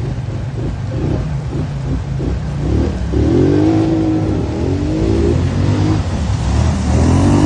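Polaris off-road vehicle engine running under load and revving, its pitch climbing about three seconds in and again near the end.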